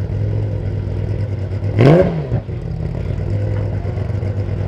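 Engine idling steadily, with one quick throttle blip about two seconds in that rises in pitch and falls straight back to idle.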